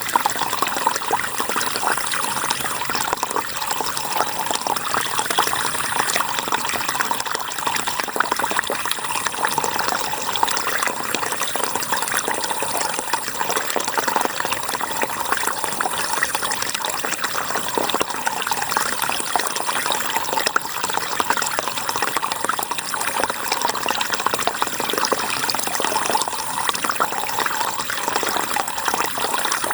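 River water flowing and splashing in a steady, even rush.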